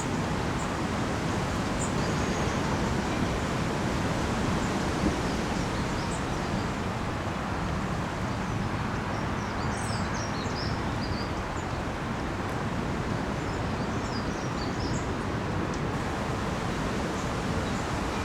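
Steady wind and rain noise, with faint high bird chirps scattered through it, a cluster about halfway through and a few more a few seconds later.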